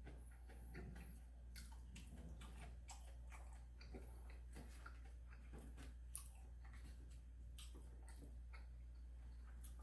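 Faint eating sounds: soft chewing with small, irregular mouth clicks and taps, over a steady low hum.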